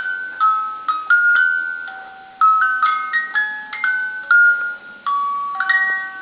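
A baby's musical toy playing a simple electronic chime melody, one bell-like note at a time, while its cartoon characters go around.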